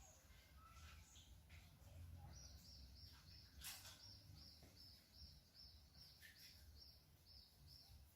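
Faint outdoor background with a small bird repeating a short high chirp about three times a second, starting a couple of seconds in, and a single brief click in the middle.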